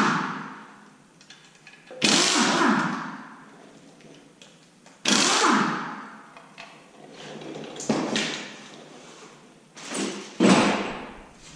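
Power tool spinning out the oil pan bolts of a 6.0 LS V8 in four or five short bursts, about every two to three seconds, each starting sharply and winding down with a falling pitch.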